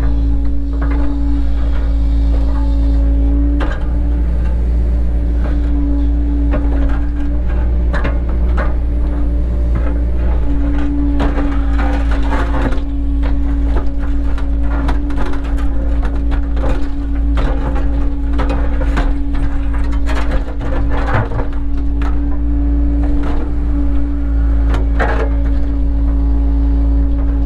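Cat 307 excavator's diesel engine running steadily under work, a constant drone with a steady hum, overlaid with frequent irregular knocks and clatters from the machine's work.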